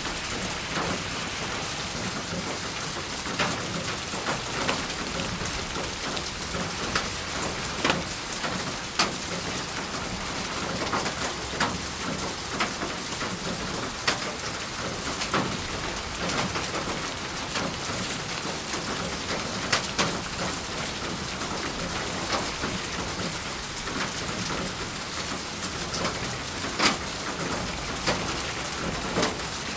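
Steady rain falling, with louder individual drops tapping at irregular moments every second or so.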